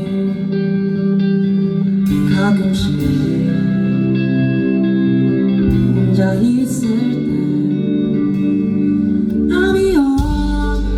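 Live band performing a song, with electric guitar and a sung vocal line over sustained chords.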